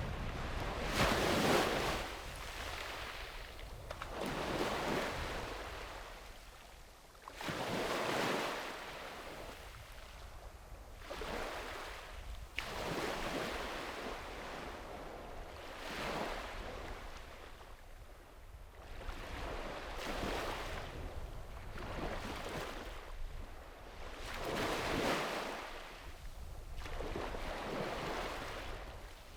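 Sea waves breaking and washing up the beach, one swell of surf about every three to four seconds, over a low steady rumble.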